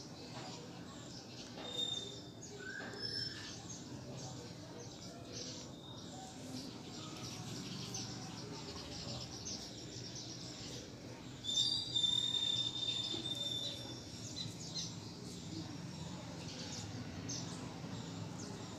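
Birds chirping, with a louder call of a few high, steady notes about twelve seconds in. Under it, faint small clicks and rustles from fingernails picking nits through the hair.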